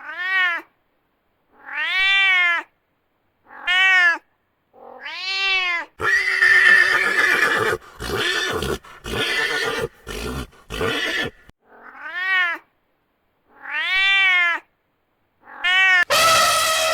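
A cat meowing over and over, each meow a short call that rises and falls in pitch, with a rougher, noisier run of broken yowls in the middle and a harsh call near the end.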